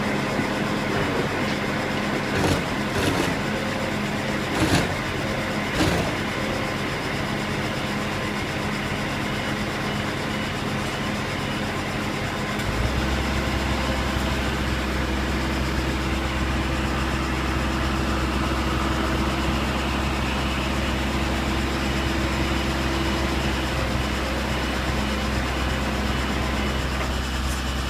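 A recovery truck's engine runs steadily, with a few sharp metallic knocks in the first six seconds. About 13 seconds in, a louder, deeper steady drone with a higher hum over it comes in and holds.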